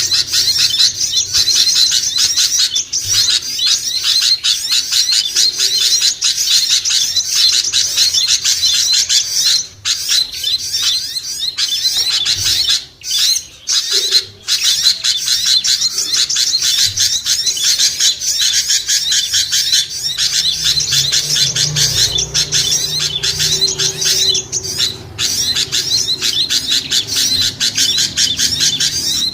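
A bird-lure recording of a noisy crowd of small songbirds chirping and chattering rapidly and without let-up, with a few brief breaks. It is made to draw small birds down for trapping. A low hum joins about two-thirds of the way through.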